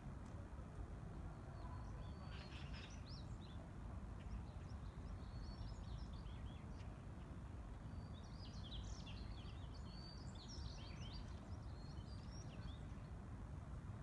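Small birds chirping in quick, short high calls, scattered at first and busiest from about eight to twelve seconds in, over a steady low hum of city background noise.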